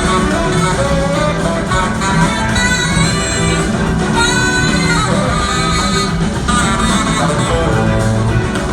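Rock band playing live, with electric guitar to the fore over bass and drums.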